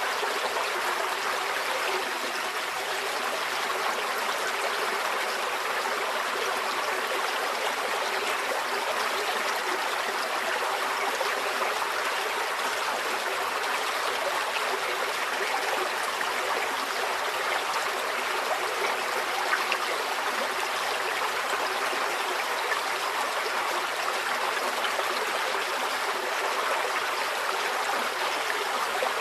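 Shallow stream flowing and trickling over stones, a steady even babble with no pauses.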